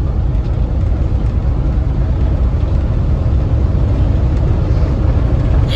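Steady low rumble of a train rolling along the rails.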